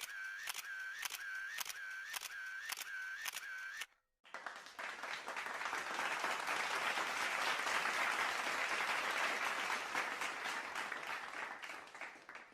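A rapid series of camera shutter clicks, about two a second, stops about four seconds in. Then comes applause, a crowd clapping that swells and then fades away.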